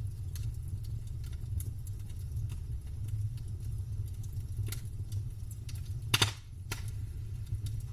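Wood campfire burning: a steady low rumble with scattered crackles, and one loud pop of the wood about six seconds in, followed by a smaller one.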